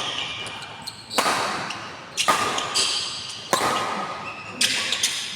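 Badminton rackets striking a shuttlecock in a rally: four sharp hits, about one every second, each with a short reverberant tail.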